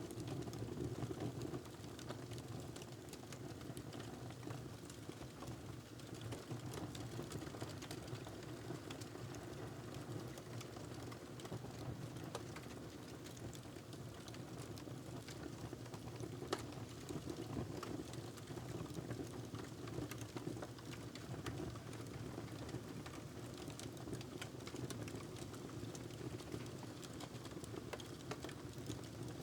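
Wood fire crackling in a fireplace: scattered small snaps and pops over a steady low rumble, with one sharper pop about halfway through.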